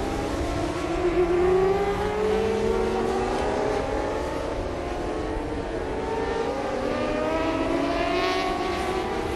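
Engines of several 600 cc supersport racing motorcycles at high revs, their pitches rising and falling and overlapping as they accelerate and change gear.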